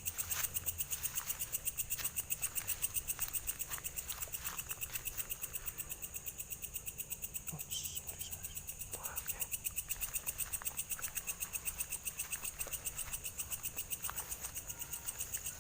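Night chorus of frogs and insects calling around a pond: a steady, fast, high-pitched pulsing of about seven beats a second that never lets up.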